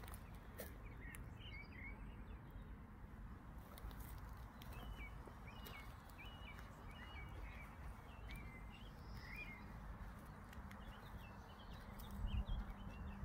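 Small birds chirping, a series of short high calls at roughly two a second through most of the stretch, over a steady low rumble. A few louder low thumps come near the end.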